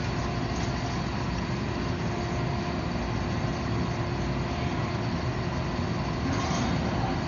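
Steady machinery hum and hiss with a few faint constant tones, typical of shop equipment left running, with a slight swell about six seconds in.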